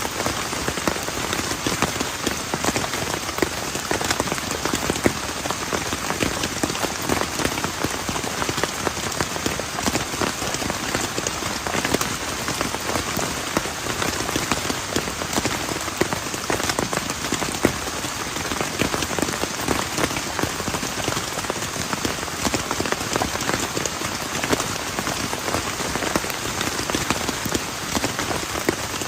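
Heavy rain falling steadily, with many close raindrops striking a nearby surface.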